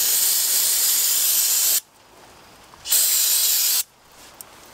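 Pressurized spray hissing onto dirty carburetor parts during cleaning, in two bursts: a long one that cuts off suddenly about two seconds in, then a shorter one a second later.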